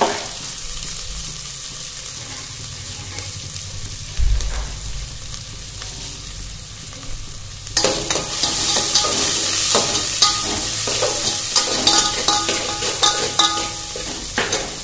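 Chopped onion, mint, coriander and green chilli sizzling in hot oil in a metal pot, with a dull knock about four seconds in. About eight seconds in, a slotted metal spatula starts stirring, and the sizzle gets louder with scraping and clicking against the pot.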